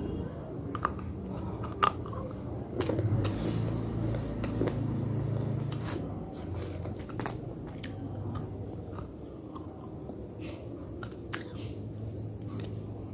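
A person biting and chewing hard slate, with sharp, irregular crunches and cracks.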